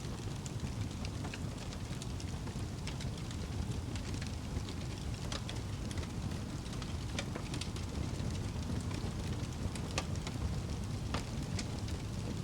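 Fire burning in a fireplace: a steady low rumble of flame with frequent, irregular sharp crackles and pops.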